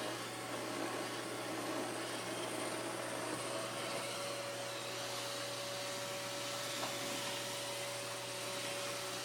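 Roomba robot vacuum running steadily, its motor and brushes giving an even whir, with a thin steady whine joining about a third of the way in.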